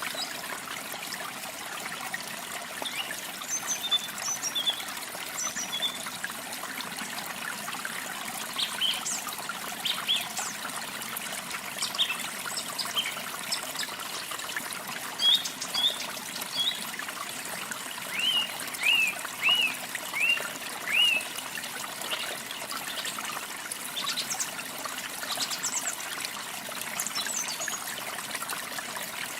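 Water trickling steadily, as from a small stream, with songbirds chirping over it; about two-thirds of the way in, one bird gives a run of five quick chirps.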